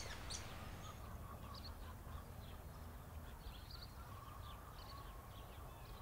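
Faint, scattered high chirps of small birds over a low outdoor rumble.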